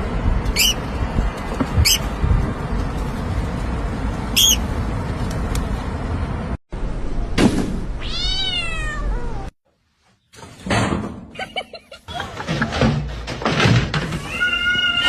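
Cat meowing: one long drawn-out meow rising and falling in pitch about halfway through, and another meow near the end. Three short high chirps come in the first few seconds, with some knocking and clatter in the later part.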